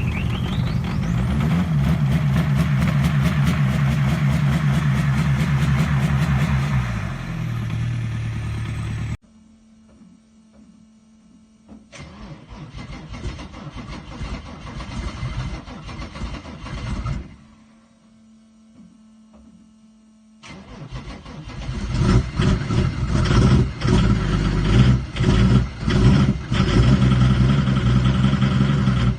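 Engine cold starts in several cut-together takes. It runs steadily, its pitch stepping down before the sound cuts off abruptly about nine seconds in. A quieter stretch of starting noise follows, then the engine catches and runs unevenly, its level surging up and down.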